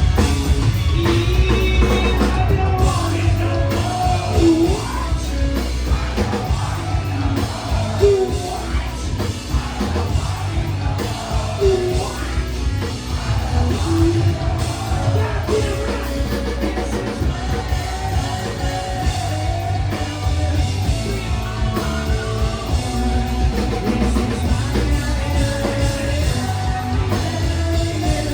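Live rock band playing loud in a large room, with drum kit, bass, electric guitars and a singing vocal.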